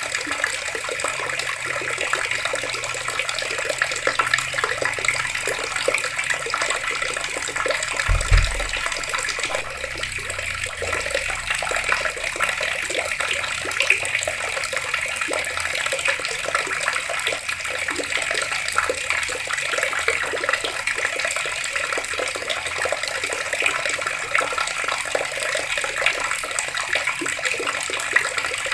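Water running steadily from taps and splashing, an even rushing hiss. A brief low thump about eight seconds in.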